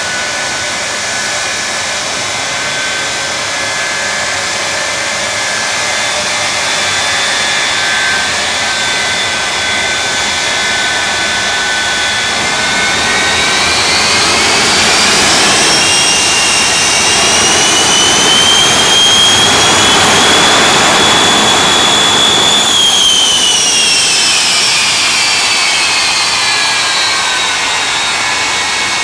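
The three jet engines of the Shockwave jet semi truck whining steadily, then spooling up about halfway through. They hold at a higher pitch for several seconds, then wind back down near the end.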